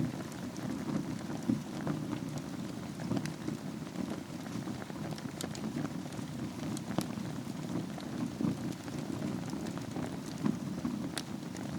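Wood fire burning in a fireplace over a bed of embers: a steady low rumble of flames with scattered sharp crackles and pops.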